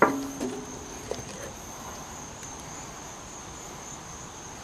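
Insects trilling steadily on one high, unbroken tone. A short grunt-like voice sound and a few faint knocks come in the first second.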